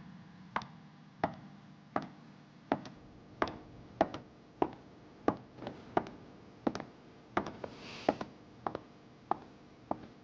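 A series of short, sharp taps in an even rhythm, about three every two seconds, becoming less regular and doubled near the end.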